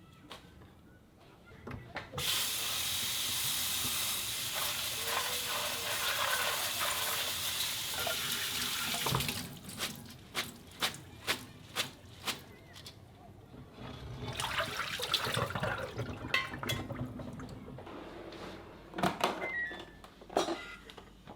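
Kitchen sink tap running steadily for about seven seconds and then shutting off, followed by a string of light knocks and clinks, a second, shorter rush of rinsing noise, and a few more clinks near the end.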